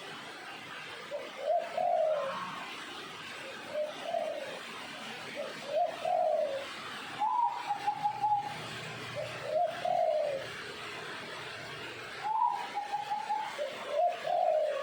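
Zebra dove (perkutut) singing: repeated phrases of soft, rising-and-falling coos. Twice, about seven and twelve seconds in, a phrase ends in a longer, higher, rapidly pulsed trill.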